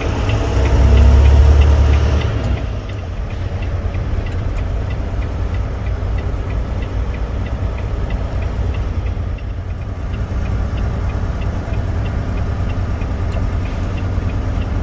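Steady low rumble of a semi-truck's engine and road noise heard inside the cab. It is loudest for the first two seconds or so, then eases to a lower steady drone with faint regular ticking.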